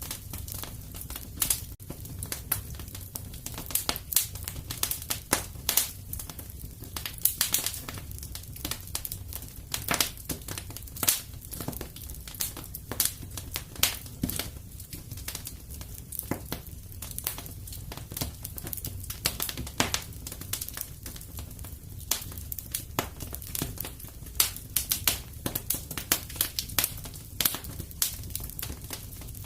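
Fireplace wood fire crackling, with irregular sharp pops and snaps over a low steady rumble of the flames.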